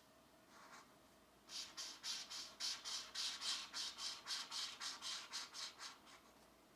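Colored pencil scratching on coloring-book paper: one short stroke, then from about a second and a half in a quick back-and-forth run of shading strokes, about four or five a second, stopping near the end.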